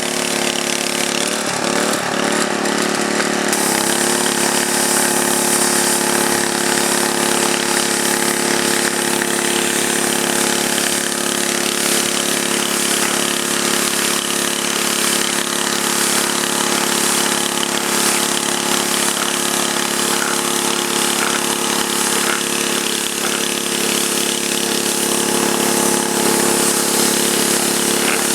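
A pressure washer's small engine running at a steady pitch, with a hiss of spray over it, the pitch wavering slightly in the first few seconds before settling.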